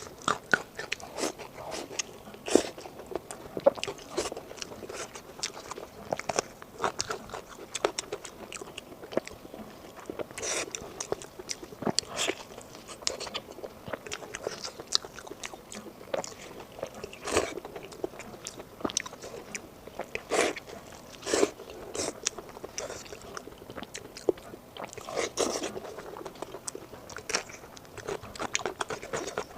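Close-miked eating sounds: a person biting and chewing food, with irregular wet mouth smacks and crisp crunchy clicks throughout.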